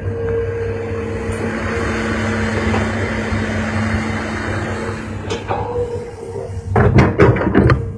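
Heavy diesel earthmoving machinery running steadily with a droning hum. About seven seconds in, a quick run of loud thumps and knocks comes in.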